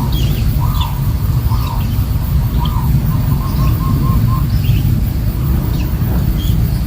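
Long-tailed shrike calls: a short arched call repeated about once every second, then a quick run of notes about three seconds in, with scattered higher chirps. A loud steady low rumble runs underneath.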